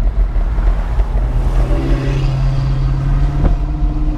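Wind buffeting the microphone while cycling, with a steady engine hum from a motor vehicle coming in about a second in.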